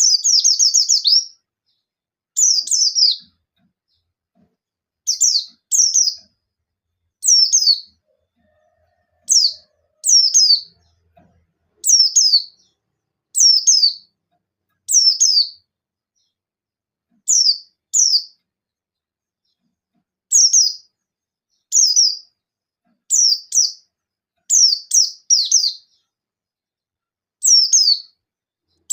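A white-eye (pleci buxtoni) giving short, sharp chirps that sweep downward, in clusters of one to three every second or two. These are the rapid 'nembak' calls used as a challenge to provoke rival white-eyes into singing.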